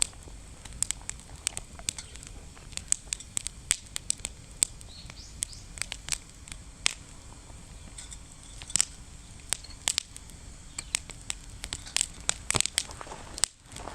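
Wood fire crackling in a fire pit stand, with many irregular sharp pops and snaps over a low steady background.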